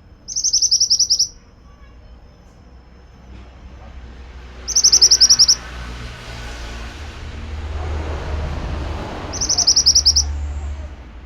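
A pied bushchat (mantenan) singing three short, rapid, high-pitched trilled phrases, each under a second, a few seconds apart. A low rumble swells and fades behind the later phrases.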